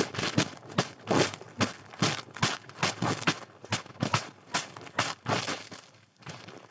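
Footsteps crunching through snow at a steady walking pace, about two to three crunches a second, growing fainter near the end.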